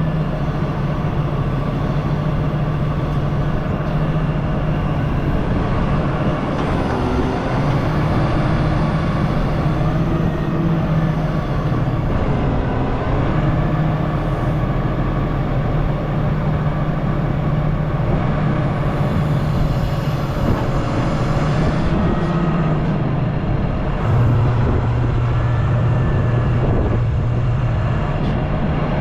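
Diesel engine of the machine carrying a grapple saw, running steadily under working load, its low hum shifting in pitch now and then as the hydraulics are worked.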